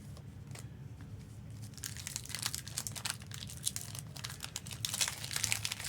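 Foil Pokémon booster pack wrapper crinkling and being torn open, the crackling getting busier about a second and a half in.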